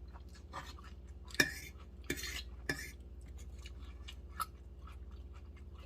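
Cutlery clinking against plates during a meal: a few sharp clinks, the loudest about a second and a half in, over a steady low hum.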